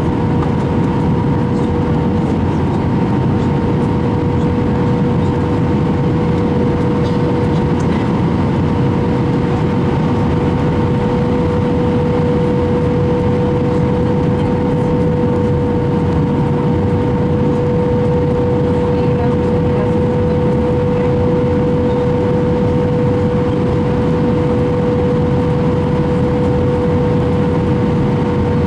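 Airbus A319 cabin noise: a steady, loud rumble of the jet engines and airflow with a constant hum tone running through it.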